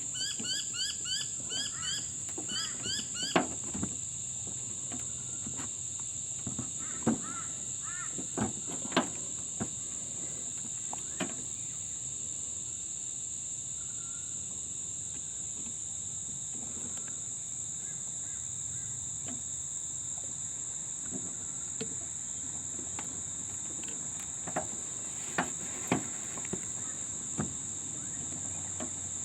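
Crickets chirring in a steady, high, even drone. For the first few seconds a bird chirps repeatedly in short rising notes. Scattered light clicks and knocks come from metal parts being handled as a brake caliper piston is pushed into its bore.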